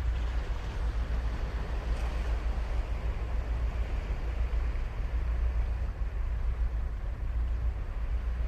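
Ocean surf breaking and washing on a beach: a steady, even rush of waves over a deep, constant low rumble.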